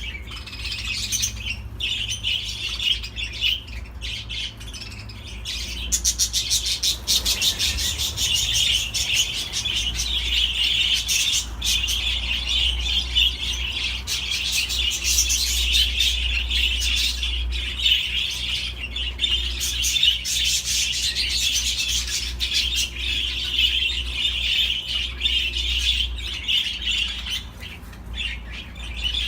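Budgerigars chattering and warbling continuously, a dense stream of fast chirps and squawks that grows fuller about six seconds in.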